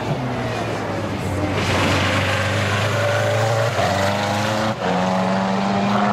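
Racing car engines running at speed, several engine notes overlapping with their pitch shifting as cars pass.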